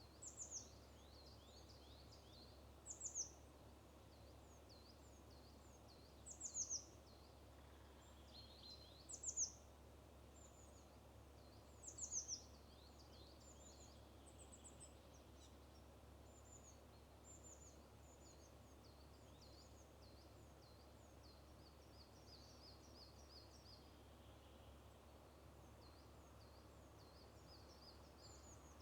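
Wild birds singing in a spring forest: a few loud, high, downward-sweeping calls every three seconds or so in the first half, over many fainter high chirps and trills throughout. A faint steady low hum lies underneath.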